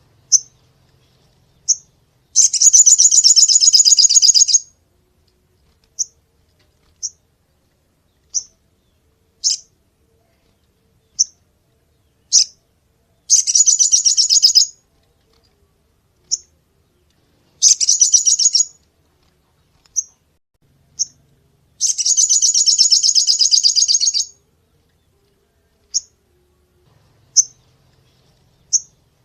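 Sogon (crested jay) calling: short sharp single notes about once a second, broken four times by loud dry rattles lasting one to two and a half seconds each, the sharp rattling "shots" that hobbyists use to train other songbirds.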